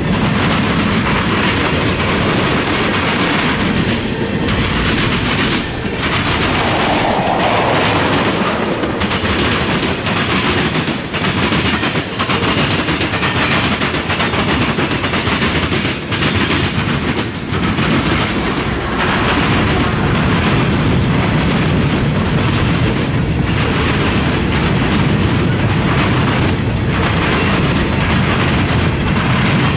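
Freight cars rolling past close by: a steady rumble of steel wheels on rail, with repeated clickety-clack as the wheelsets pass over the track.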